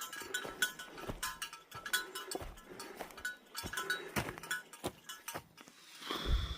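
A hiker's walking footsteps on a forest trail, with a small metal item clinking in time with the steps, ending in a loud low thump near the end.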